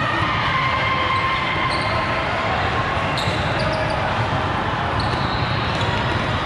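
Ball game on an indoor court in a large echoing hall: a steady din of the hall, with faint shoe squeaks and two sharp ball strikes, about three seconds in and near the end.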